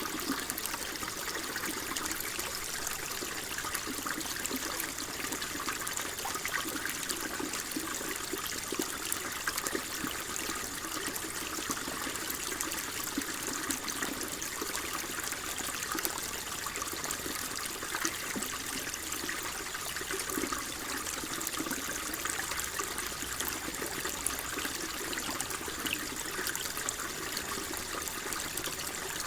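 Flowing water trickling steadily, a continuous splashing burble with fine crackles and no breaks.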